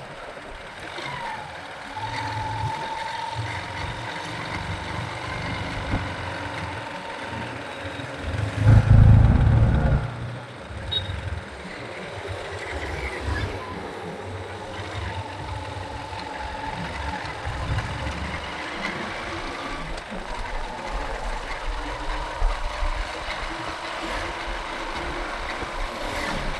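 Riding a motorcycle through city traffic: engine and road noise with passing vehicles, and a thin steady tone that comes and goes twice. About nine seconds in, a loud low rumble lasts for about a second and a half.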